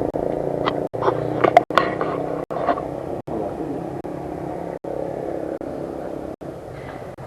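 An engine running steadily, with a few short sharp clicks and squeaks about one to three seconds in; the sound cuts out briefly and repeatedly, roughly every second.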